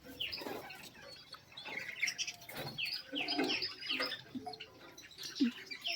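Small cage birds in an aviary chirping: many short, high, falling chirps a few times a second, overlapping one another.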